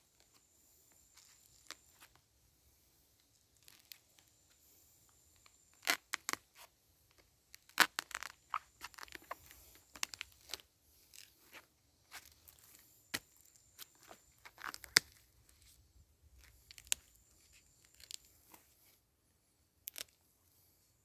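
Irregular sharp snaps, cracks and tearing of wood being broken and worked by hand, with the loudest cracks about six, eight and fifteen seconds in.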